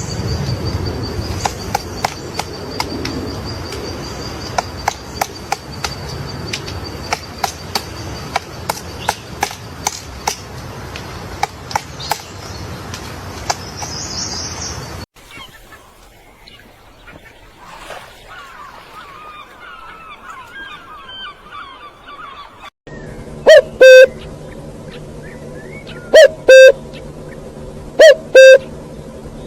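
A sequence of different bird calls. First come sharp, rapid chips, about two a second, over a steady high tone. After a sudden cut there is a fainter warbling song, then loud, low, doubled hooting calls repeated roughly every two seconds.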